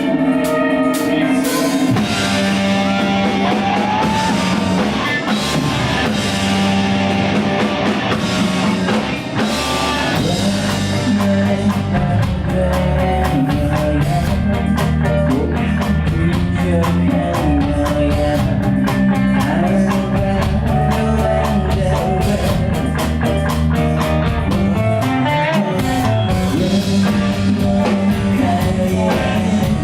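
Rock band playing live with electric guitar, bass and drum kit, the full band coming in about two seconds in over a held opening chord.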